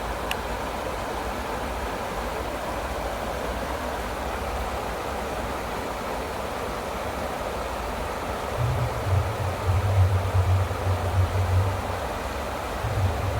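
Steady rushing of flowing water, with a brief click just after the start. From about eight and a half seconds in, uneven low rumbles of wind or handling on the microphone.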